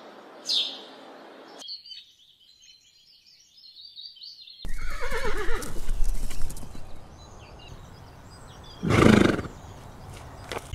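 A house sparrow gives a short falling chirp, followed by faint high twittering. About five seconds in a horse whinnies, its pitch falling. Near the end comes a single loud snort.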